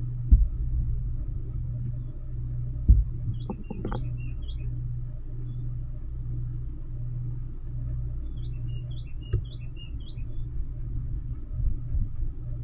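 Northern cardinal singing two phrases of quick, falling whistled notes over a steady low hum. Two dull thumps come in the first three seconds, louder than the song.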